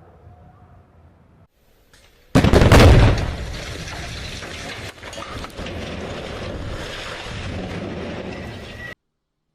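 Explosive demolition charges going off about two seconds in, a sudden loud blast, followed by several seconds of continuing noise from the chimney's collapse that cuts off abruptly near the end.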